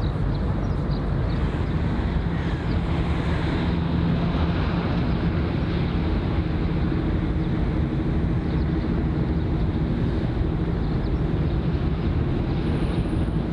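A steady low engine hum under wind noise on the microphone.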